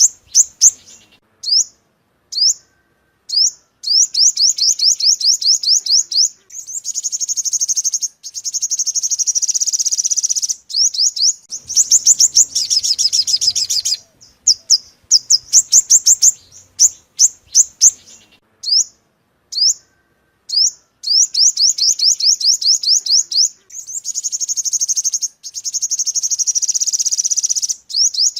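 Olive-backed (yellow-bellied) sunbird song used as a lure call: fast runs of thin, high sweeping chips in repeated bursts with short pauses, and two longer buzzing trills.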